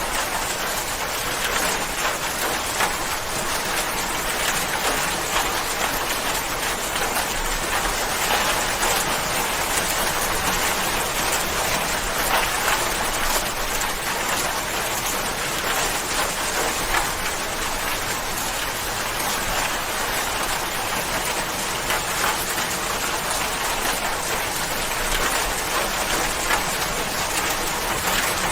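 Steady rain falling on a surface, a dense even hiss of countless small drop impacts.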